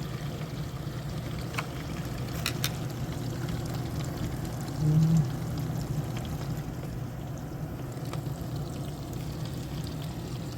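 Samsung DW80M9550UG dishwasher running in wash mode: water pouring and splashing inside the tub over a steady low hum, with a brief louder low hum about halfway through. It is running with a worn lower door gasket that lets the wash water overflow and leak out at the door.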